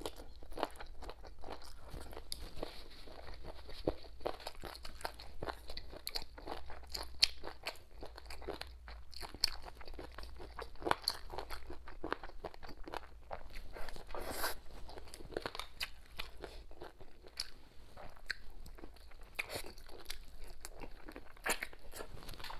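Close-up chewing and biting on braised duck feet: a steady, irregular run of small wet clicks and crunches.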